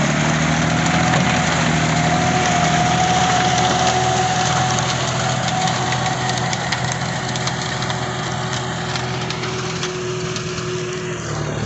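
John Deere 5045 4WD tractor's three-cylinder diesel engine running steadily, with a faint whining tone for a few seconds about a second in.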